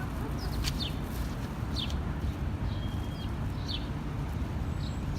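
Birds chirping: about five short, falling chirps spread over a few seconds, above a steady low outdoor rumble.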